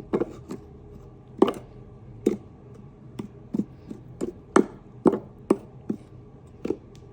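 About a dozen irregular, sharp taps and knocks of a kitchen utensil against a container as spice powder is added to a bowl of beef.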